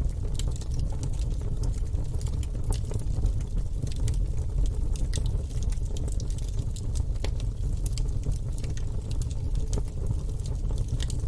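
Logs burning in a fireplace, crackling with frequent sharp pops at irregular intervals over a steady low rumble of the flames.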